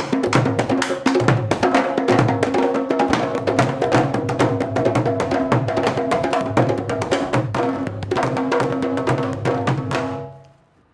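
Candombe drums playing together: fast hand-and-stick strokes with sharp clicks of sticks on wood over deep thuds from the low piano drum. The drumming fades out near the end.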